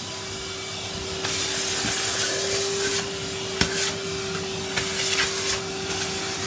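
Numatic Henry canister vacuum cleaner running steadily with a constant motor hum and airflow hiss, getting louder about a second in, with a couple of sharp clicks as it picks things up.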